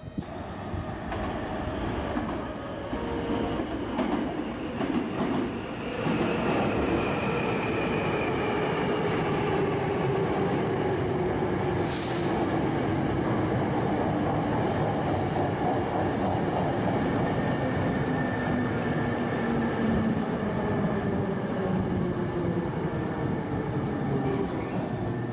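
Hankyu 5300 series electric commuter train pulling into the station and braking to a stop. Its motor whine falls steadily in pitch as it slows, and there is a short high hiss about halfway through.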